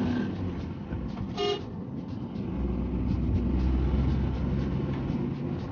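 A vehicle horn gives one short toot about a second and a half in, over the steady low drone of a road vehicle's engine.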